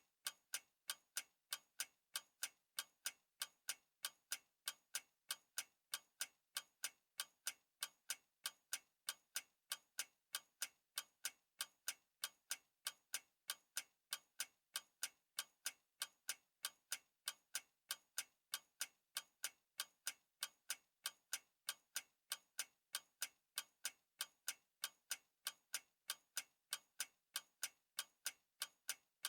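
Clock ticking steadily, quick even ticks at about three a second.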